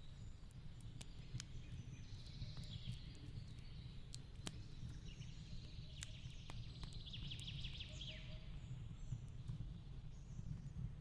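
Fireplace crackling, with scattered sharp pops over a low steady rumble, mixed with forest birds chirping and a rapid trill about seven seconds in.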